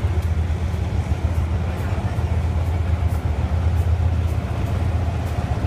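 Train rumbling steadily, a deep low hum with faint scattered ticks.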